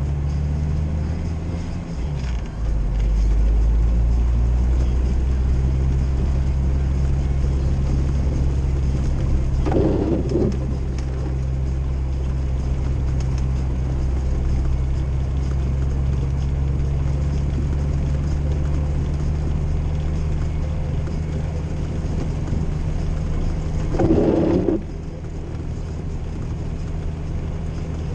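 Old Jeep's engine and road noise heard from inside the cab while driving on snow-covered roads: a steady low drone that gets louder and shifts pitch about two and a half seconds in. Two short, louder sounds break in, about ten seconds in and near the end.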